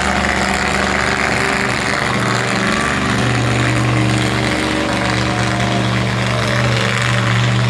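Monster truck engine idling steadily, a low, even running drone.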